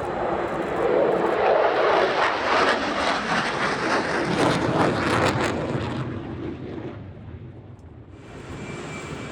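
F-16 fighter jet flying past: a loud jet noise that builds, holds for several seconds with a crackling edge, then fades away about seven seconds in.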